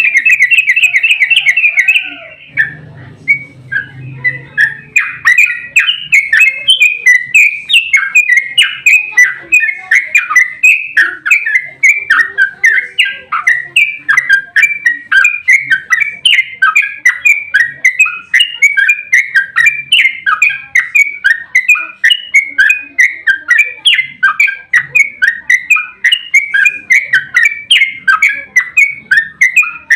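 Yellow-vented bulbul (trucukan) singing: a rapid chattering run of notes for about two seconds, then after a short break a long, continuous series of repeated chirping notes, several a second.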